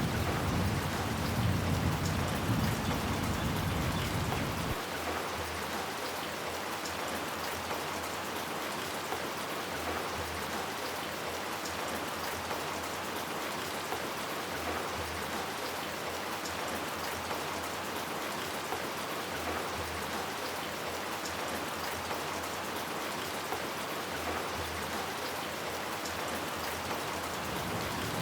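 Steady rain falling as an even hiss. A low thunder rumble dies away in the first few seconds.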